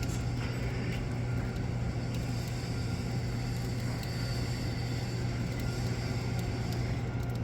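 Steady low machine hum at one even pitch, with a few faint clicks.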